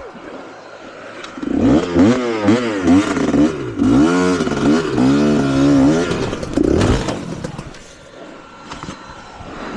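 Trail motorcycle engine revved up and down repeatedly, a run of throttle blips lasting several seconds, then dropping back to a lower, quieter running.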